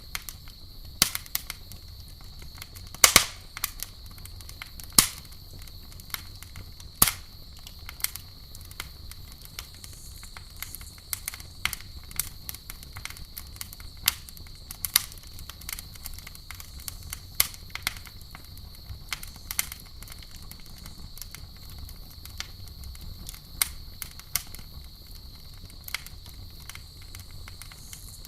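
Campfire burning, the wood crackling and popping in irregular sharp snaps, the loudest about three seconds in. A steady high-pitched drone of night insects runs underneath.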